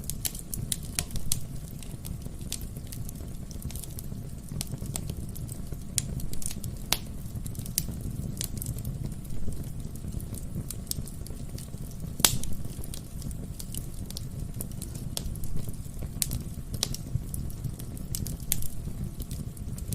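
Wood fire burning in a fireplace: a steady low rumble of flame with frequent irregular crackles and pops of burning logs, one sharper pop about twelve seconds in.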